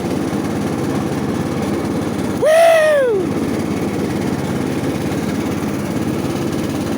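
Cub Cadet hydrostatic ride-on mower engine running steadily under way. About two and a half seconds in there is a brief squeal that rises and then falls in pitch.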